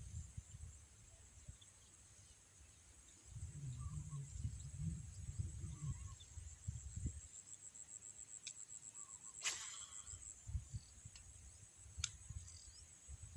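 Steady high-pitched chirring of crickets or similar insects, with low rumbling on and off and a sharp click about nine and a half seconds in, followed by a fainter one near the end.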